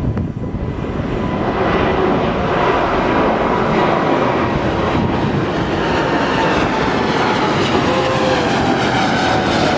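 Boeing 787 jet engines at takeoff power: a loud, steady rumble that swells about a second in, with whining tones that slowly fall in pitch as the airliner passes.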